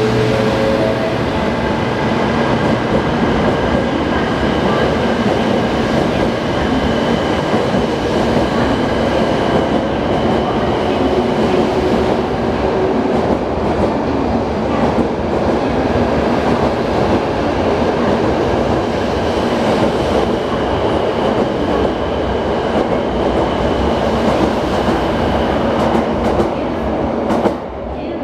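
JR Central 700 series Shinkansen train pulling out and passing close by as it gathers speed: a loud, steady rush of wheels and running gear with thin steady whine tones over it. The sound falls away near the end as the last car goes past.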